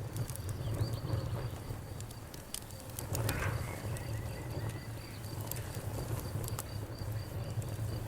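Wood fire crackling: irregular sharp pops and snaps over a steady low rumble of the burning fire, with a short louder flare-up about three seconds in.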